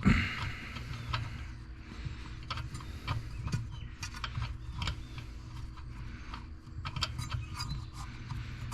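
Hand tools and metal intake parts clicking, clinking and rattling as the air intake is taken apart in the engine bay of a diesel pickup, with a single heavy thump right at the start.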